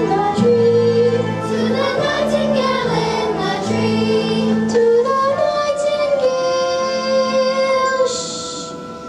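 Children singing a song, a held wavering melody line over instrumental accompaniment.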